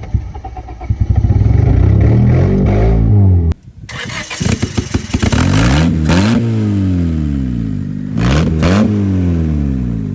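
Freshly swapped engine in an EK Honda Civic running and being revved up and down several times, with a short break about three and a half seconds in.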